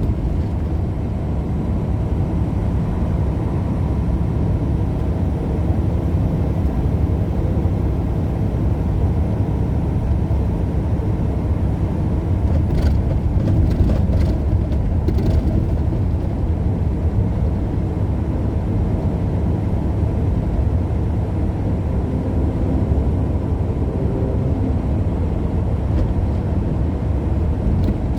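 Steady low drone of a semi-truck's engine and tyres heard from inside the cab while driving at road speed, with a couple of faint clicks about halfway through.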